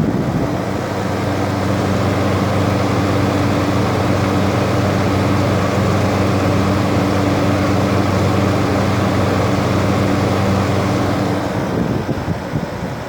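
LG window air conditioner's outdoor side running: a steady compressor hum under the rush of the condenser fan blowing hot air out. The hum drops away near the end.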